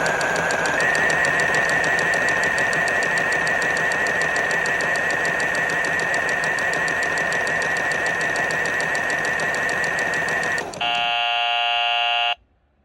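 Ddolddori washing machine's motor running steadily with a high whine and fast rattling, the whine stepping up slightly in pitch about a second in; the motor stops near the end, followed by a single electronic beep about a second and a half long.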